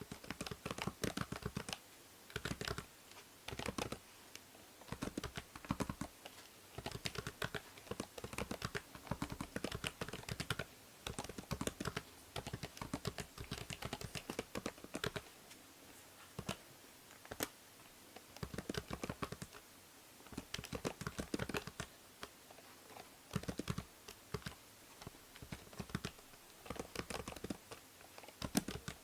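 Typing on a computer keyboard: quick runs of key clicks in bursts with short pauses between them, over a steady faint hiss from the binaural microphone.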